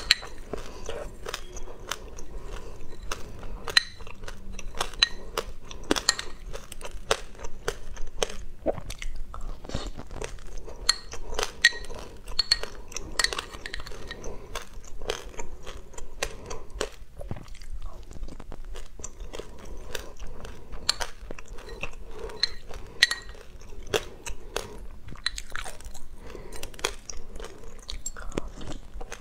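Close-up chewing and crunching of mouthfuls of black sesame seeds: a dense, continuous stream of small sharp crackles.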